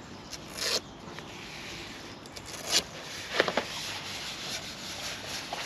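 Camping gear being handled: a few short scrapes and rustles over a steady background hiss, the loudest a quick cluster about three and a half seconds in.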